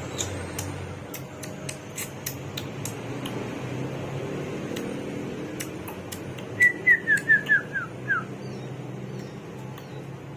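Caged hwamei (garugiwa) giving a quick run of about seven short, downward-slurred whistles about two-thirds of the way through, over a steady background hum and scattered sharp clicks.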